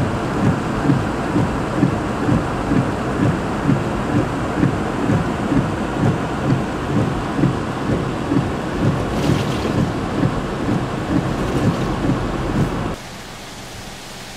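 Heavy rainstorm noise: a dense rushing hiss with a regular low throb about two and a half times a second, which cuts off abruptly near the end to a quieter rain hiss.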